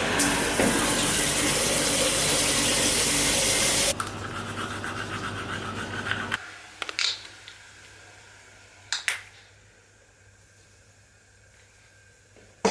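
Water running hard, then lower about four seconds in, and shut off about six seconds in; a few light clicks follow.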